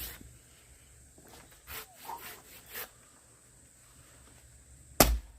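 Axe striking a log being split for firewood: one sharp, loud crack about five seconds in, after a few softer knocks and scrapes near the middle.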